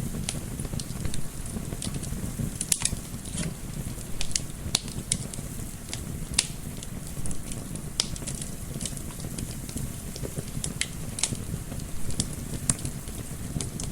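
Wood fire crackling in a fireplace: irregular sharp pops and snaps, a few louder than the rest, over a steady low rumble, with gentle wind mixed in.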